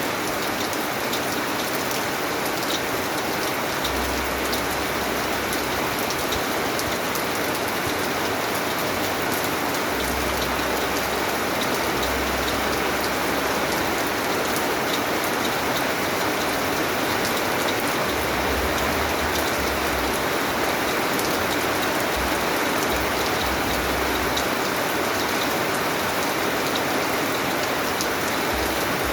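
Steady rain falling, a dense, even patter of drops with scattered sharper drop ticks, and a faint low rumble that comes and goes underneath.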